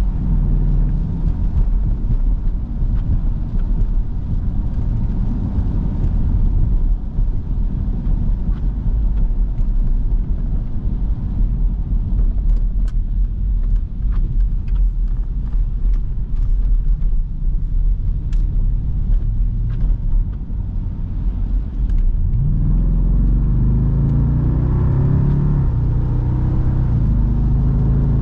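Jeep Grand Cherokee SRT's muffler-deleted V8 cruising with a low rumble under road noise. About two-thirds of the way in, it accelerates and the exhaust note rises in pitch and grows louder.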